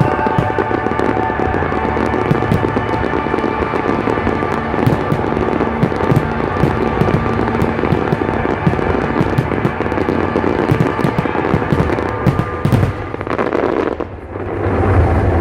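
A fireworks display going off in a dense barrage of overlapping bangs and crackles over loud accompanying music. Near the end the bursts thin out and the music carries on.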